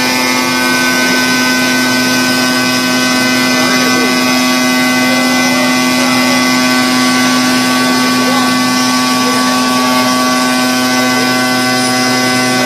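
Stone CNC router with automatic tool changer running, a steady machine hum and whine with a strong low tone and several higher steady tones, unchanging in level.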